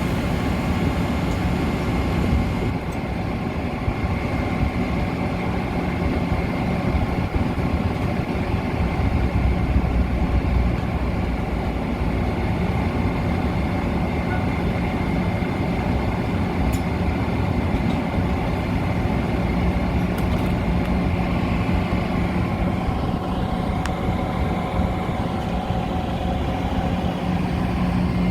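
Metra commuter train noise: a steady rumble with a continuous low hum.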